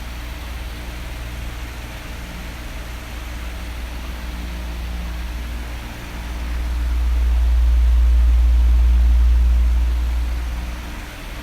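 Electric fan running with a steady whooshing hiss over a low hum. A deep rumble swells up past the middle, holds for a few seconds and fades back down.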